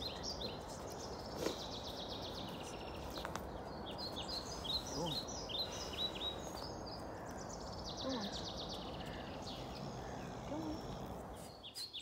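Songbirds chirping and trilling: repeated quick runs of high chirps and down-sweeping calls over a steady outdoor background hiss.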